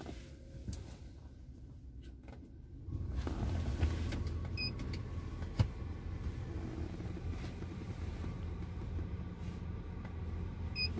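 Hyundai Grand i10 engine idling, heard from inside the cabin as a steady low hum that comes in about three seconds in. Two short electronic beeps sound, one a little after four seconds and one near the end.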